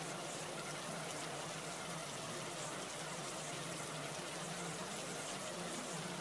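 Steady, even water-like noise, like bubbling or trickling water, with no change or pause: a looped background ambience bed.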